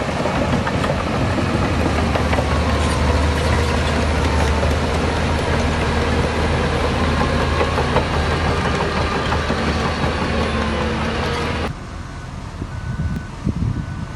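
Heavy diesel earthmoving machinery running steadily under load with a deep engine drone and clatter. It drops abruptly to a quieter background near the end, with a few knocks.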